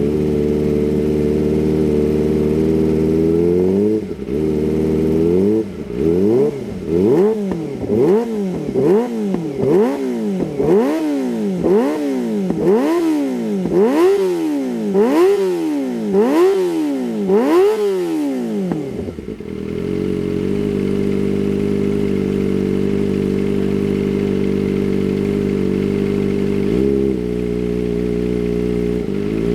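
Kawasaki ZX-25R's inline-four engine through a Shijiro aftermarket racing exhaust, idling and then blipped in a rapid series of about a dozen revs, roughly one a second, before settling back to a steady idle. There is one more short rev near the end.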